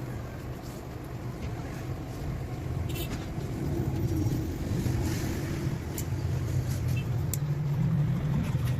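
A steady low motor rumble that grows louder about three seconds in, with a few scattered sharp clicks.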